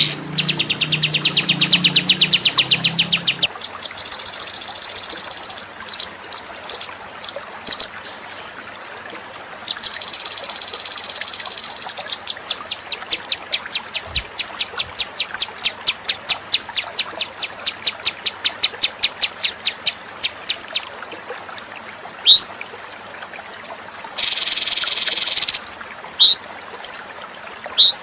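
A string of songbird calls and song. First a fast buzzy trill for about three seconds, then high rattling trills and harsh buzzy bursts. In the middle a long run of sharp repeated notes comes at about four or five a second. Near the end there are quick rising whistles and one long harsh buzz.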